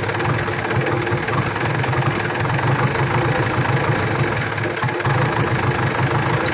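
A JCB machine's diesel engine running steadily at idle.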